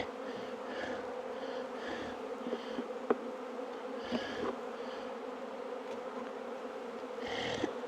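Honey bee colony buzzing steadily from an open hive, a constant hum, with one sharp click about three seconds in.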